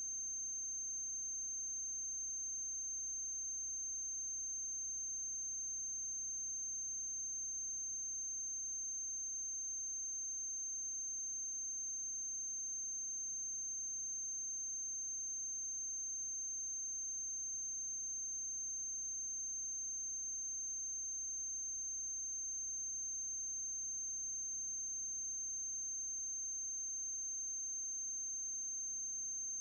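A steady high-pitched electronic tone with a faint low hum underneath, unchanging throughout: transfer noise on the soundtrack of a silent film, with no other sound.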